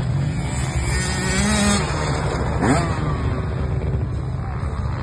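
Motocross dirt bikes racing, their engines revving up and down over a steady rumble, with one quick rising rev about two and a half seconds in.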